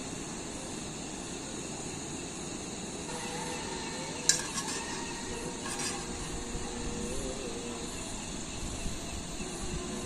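Camp cooking: a steady hiss with a sharp metal clink of a pot or utensil about four seconds in, and a lighter clink a second and a half later.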